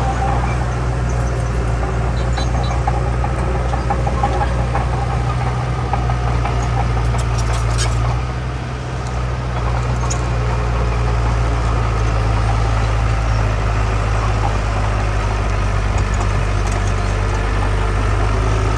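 Heavy earthmoving machine's diesel engine running steadily, with a short drop in level about eight seconds in and a few sharp knocks just before it.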